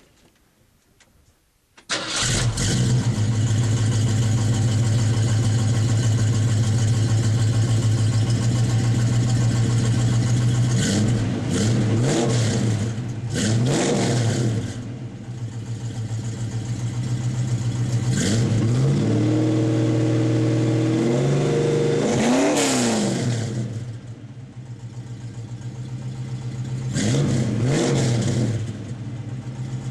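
1966 Mustang's 289 V8 through a Flowmaster American Thunder exhaust starts up about two seconds in, then idles. Its throttle is blipped twice, then held for a longer rise in revs, and blipped once more near the end.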